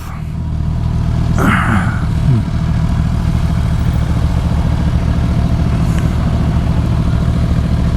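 Suzuki GSX-R750's inline-four engine running at a steady cruise under wind rush. About a second and a half in comes a brief noise with a falling pitch.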